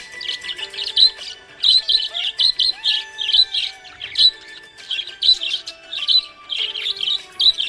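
Small pet parrots chirping in quick runs of short, high chirps, with a brief lull about halfway through, over soft background music.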